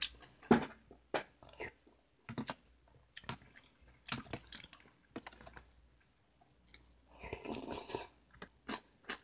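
Close chewing and eating sounds of a person eating beef seaweed soup (miyeokguk) with chopsticks: soft mouth noises and many short, sharp clicks, with a longer noisy sound about seven seconds in.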